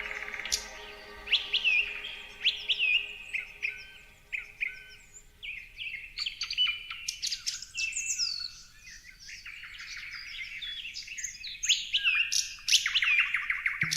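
Songbirds chirping and calling, many short overlapping chirps and quick downward-sliding whistles, growing busier in the second half. A faint steady low hum fades out in the first few seconds.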